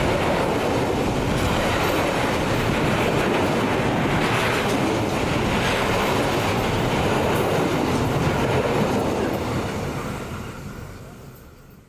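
A train passing close by, its wheels running loudly on the rails. The sound fades away over the last two seconds.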